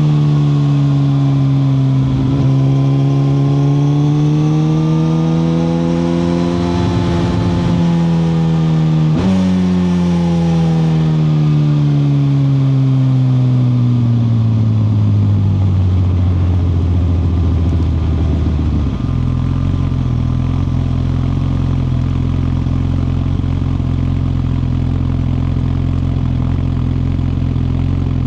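2021 Suzuki GSX-R1000R's inline-four engine running under way, its pitch dipping and rising, then a gear change about nine seconds in. The engine note then falls steadily as the bike slows, and settles to a steady idle a little past halfway.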